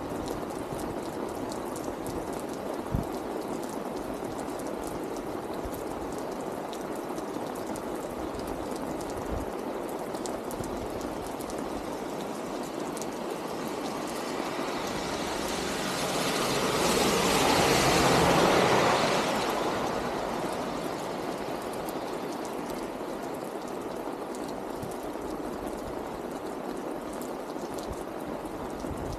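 Steady rain falling, with a car passing on the wet road about halfway through, its tyre hiss swelling for a few seconds and fading away. A couple of sharp drips near the start.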